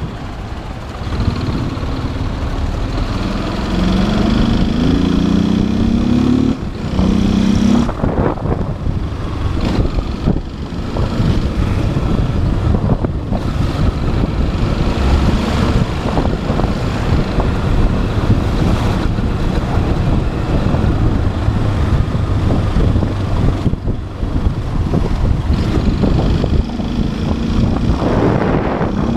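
Motorcycle engine riding in traffic, its pitch climbing in steps through gear changes a few seconds in and again near the end, with heavy wind rushing over the helmet-mounted camera microphone.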